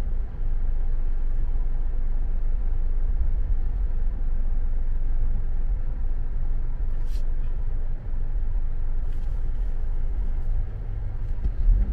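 Steady low rumble of a car heard from inside its cabin, the road and engine noise of the vehicle, with a faint click about seven seconds in.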